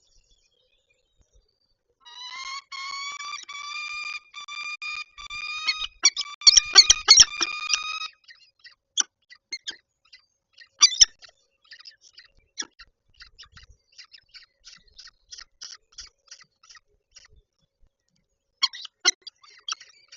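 Peregrine falcon calling at the nest: a run of rapid, pitched call notes for about six seconds, loudest near the end of the run. Then come scattered short chips and clicks, with a brief louder burst near the end.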